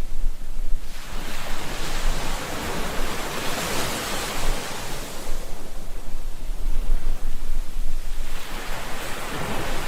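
Ocean waves washing ashore. One surge swells to a peak about four seconds in and draws back, and another begins building near the end.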